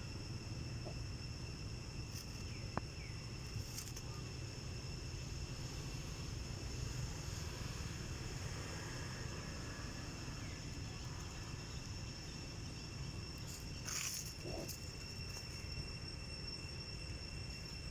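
Steady outdoor insect drone: an unbroken high, even buzz at two pitches over a low background rumble, with a brief louder noise about 14 seconds in.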